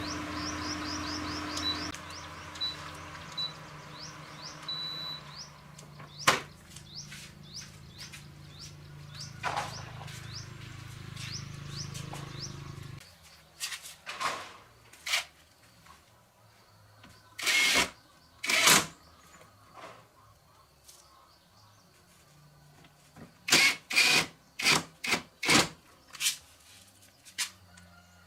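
Birds chirping in quick repeated notes over a steady low machine hum, which cuts off suddenly about halfway through. After that come a series of short loud hissing or scraping bursts and knocks from hands-on work.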